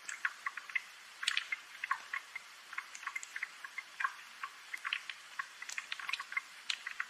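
Rain falling as separate water drops, an irregular patter of small ticks and drips over a faint hiss.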